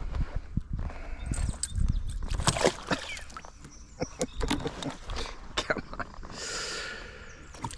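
Small smallmouth bass thrashing and flopping while being unhooked in a kayak: an irregular run of sharp taps, knocks and splashy rustles.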